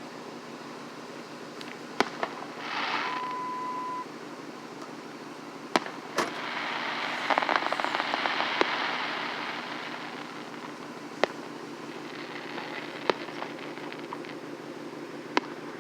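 Fireworks going off: scattered sharp bangs and a long crackling burst of crackle-type fireworks from about six to ten seconds in.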